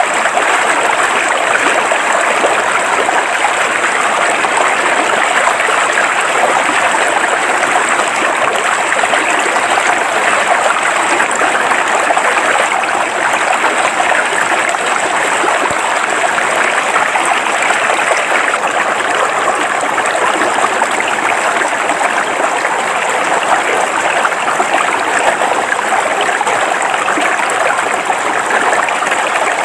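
River water flowing steadily over rocks, a constant rushing and burbling with no pauses or changes.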